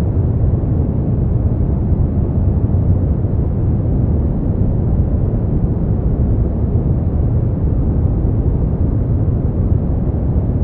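Continuous generated noise from a sleep-aid track, running steadily at an even level. Most of its weight sits in the low end with little treble, so it is a deep, even rush rather than a bright hiss.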